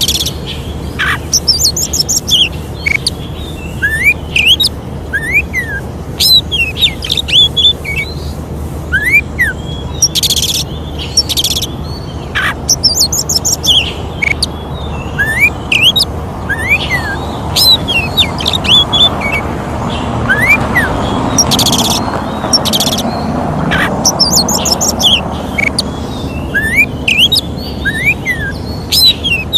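Oriental magpie-robin (kacer) singing a varied song of short whistled notes sliding up and down, rapid high trills and occasional harsh rasping notes. A steady low hum runs underneath.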